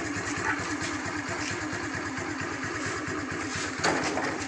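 Motorcycle engine idling with a fast, even tappet ticking, which the owner points out as tappet noise. A sharp click comes a little before the end.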